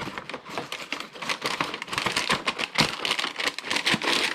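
Lionel toy train car being handled: a rapid run of small clicks and rustles that thickens into a denser rustle about halfway through.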